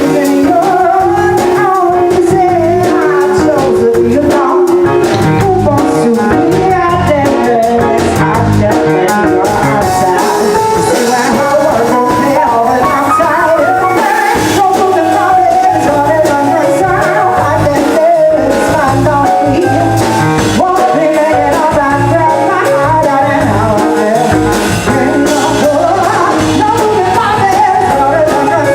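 Live band of keyboard, electric bass and drum kit playing a soul-pop song, with a lead vocal singing over it.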